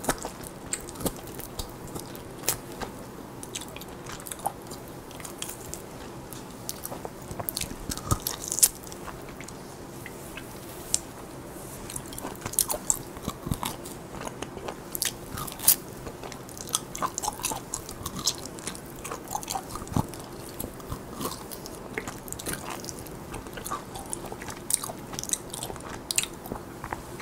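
Close-miked biting and chewing of grilled lamb pulled off a skewer with the teeth. Irregular sharp mouth clicks, smacks and crunches come several times a second throughout.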